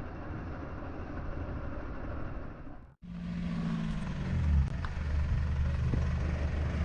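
A 4WD vehicle's engine: a rough, low rumble of driving, then after a sudden cut about three seconds in, an engine running steadily at a constant note.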